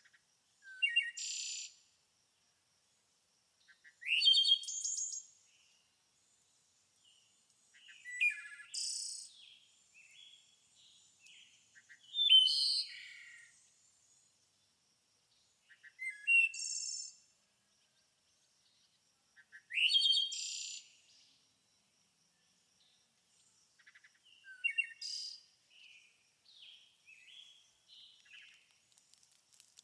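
A songbird singing short, bright, high-pitched phrases about every four seconds, with softer chirps and twitters between them and near the end.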